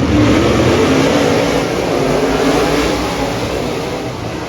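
A pack of dirt-track modified race cars at full throttle on the green-flag start, engines revving hard together, easing off slightly toward the end.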